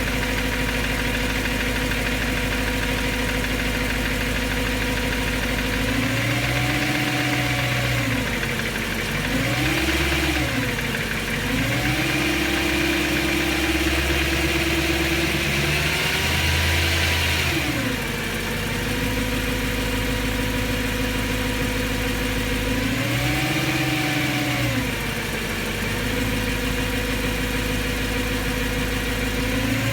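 BMW M3's S65 V8 idling and being revved several times, once held at higher revs for about five seconds in the middle before dropping back to idle. The engine carries a ticking that the owner still finds not normal after fresh rod bearings.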